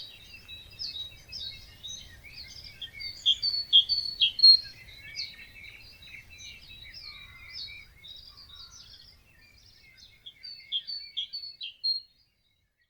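Several wild birds singing together in a dawn chorus at a wetland: a dense run of short chirps, whistles and trills, with a faint low rumble beneath. The sound cuts off suddenly near the end.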